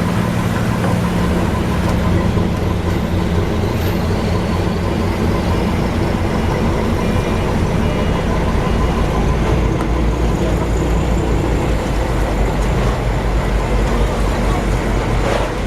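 Steady din of fishing-boat engines and unloading machinery: a low engine hum under a wash of mechanical noise. A faint whine rises slowly in pitch from about four seconds in to about ten seconds.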